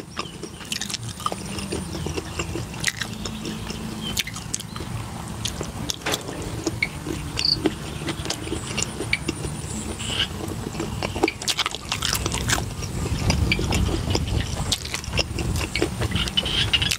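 A man chewing a mouthful of food close to the microphone, with irregular crunches and wet mouth clicks.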